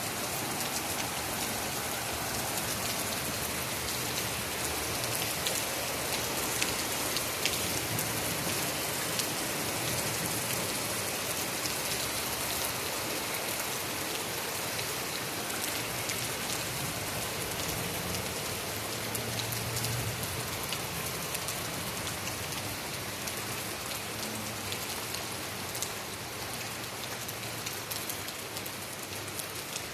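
Heavy rain falling steadily, a dense hiss of drops striking surfaces, easing slightly near the end.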